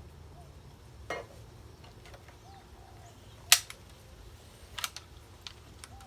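Crosman Tyro break-barrel air rifle firing a single sharp crack about three and a half seconds in, the loudest sound. A softer knock comes about a second in and a pair of small clicks near the end.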